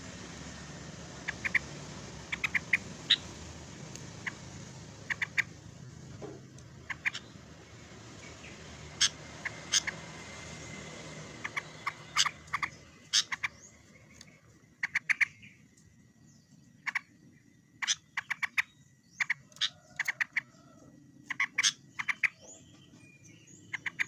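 Yellow-vented bulbul (cucak trucuk) calling: short, bright, clipped notes in quick clusters of two to four, repeated every second or so. The song is used to provoke rival birds.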